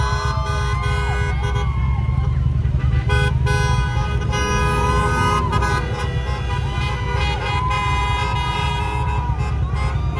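Many vehicle horns honking and held at once, several steady tones overlapping, over the low rumble of a large convoy of vehicles.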